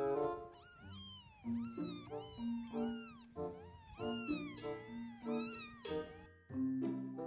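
Kittens mewing over and over, high arched cries about two a second that stop about six seconds in, over background music with held notes.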